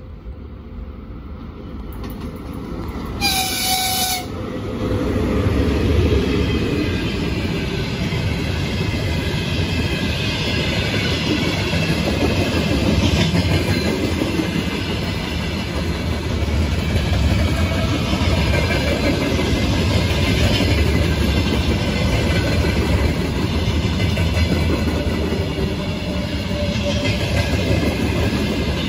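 VL80S AC electric locomotive and its freight train passing close by. About three seconds in there is one horn blast of about a second. Then the wheel and rail noise grows loud and stays steady as the locomotive and a long string of tank cars and wagons roll past with a clickety-clack.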